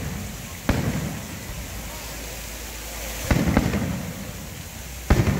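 Aerial fireworks shells bursting: three loud booms, about a second in, a little past three seconds in, and near the end, each trailing off in a rolling echo. The middle one comes as a quick cluster of several reports.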